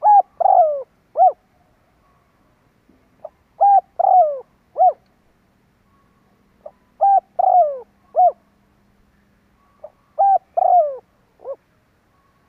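Spotted dove cooing: a phrase of a soft lead-in note and three coos, each dropping in pitch, with the middle coo the longest. The phrase repeats four times, about every three seconds.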